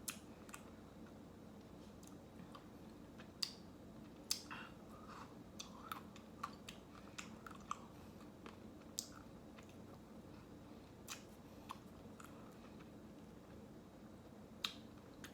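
Someone eating ice cream close to the microphone: scattered soft wet mouth clicks and smacks, a few louder than the rest.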